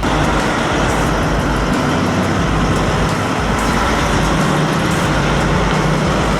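Steady, loud engine and road noise from a heavy road vehicle, most likely a transport truck, starting and stopping suddenly.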